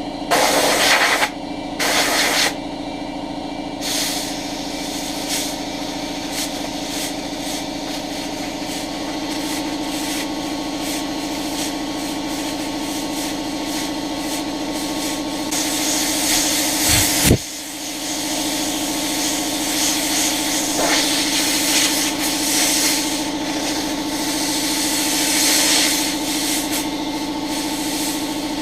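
Compressed air hissing from a blow gun as a dusty vacuum cleaner filter is blasted clean. There are two strong blasts near the start, then many short puffs and a longer blast that cuts off sharply about two-thirds of the way in, all over a steady motor hum.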